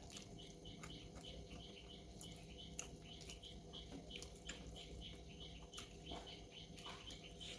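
Faint, regular chirping, about three short high chirps a second, like a small bird calling in the background. Scattered soft clicks of mouth sounds from eating come through it.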